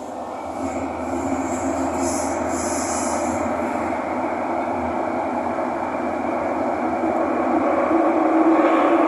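Metro train on the Thomson-East Coast Line heard from inside the car, its running noise growing steadily louder as it picks up speed, with a brief hiss early on and a steady hum coming up near the end.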